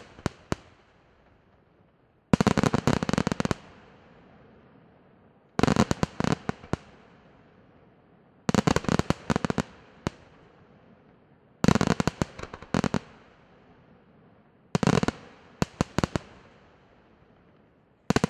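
Aerial fireworks going off in short volleys of rapid, sharp bangs, one volley about every three seconds, each trailing off before the next.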